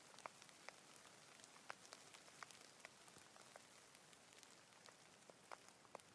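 Light rain, faint: a steady soft hiss with individual drops landing irregularly, a few of them sharper and nearer.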